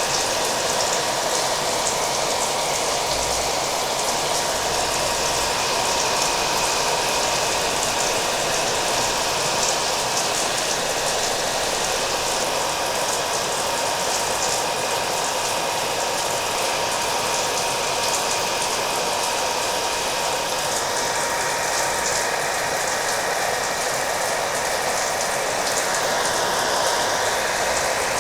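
Hair dryer running steadily, a constant rush of air with a thin steady tone in it, mixed with the patter of rain.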